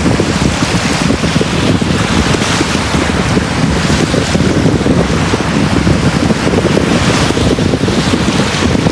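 Sea waves on a beach: a continuous rush of surf with a heavy low rumble that swells and eases slightly.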